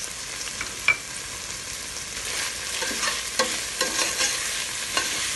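Ginger, garlic and green chilies sizzling in hot oil in a stainless steel pot while a metal spoon stirs them, scraping against the pot. There is a sharp metal clink about a second in, the loudest sound.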